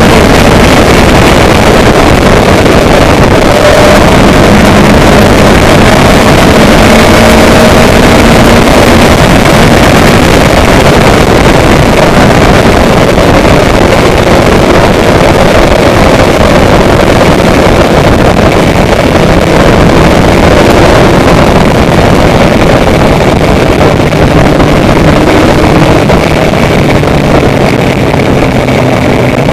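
Loud, steady rushing noise of a moving motorized vehicle, with a low engine hum that drifts slowly in pitch.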